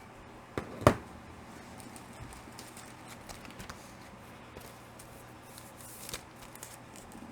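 Comic books being handled and swapped: a sharp knock just under a second in, then faint rustling and light taps, with another small bump near the end.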